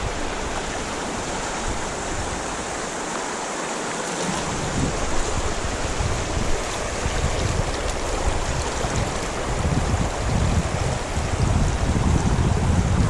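Creek water running steadily while strong wind gusts buffet the microphone in irregular low rumbles, which come on about a third of the way in and keep returning.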